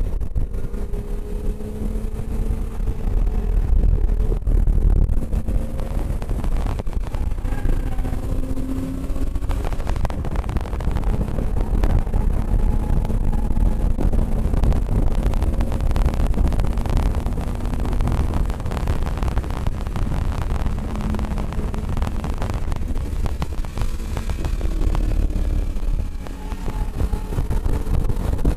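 Car engine running hard at track speed, heard from inside the car over heavy low wind and road rumble on the microphone; its pitch slowly climbs and shifts as the driver accelerates through the lap.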